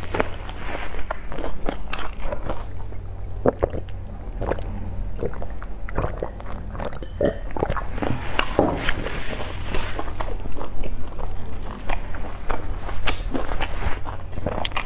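Close-miked chewing of a pan-fried Chinese chive pocket (chive-and-egg pastry): wet mouth smacks and soft crunches at an uneven pace, over a steady low hum.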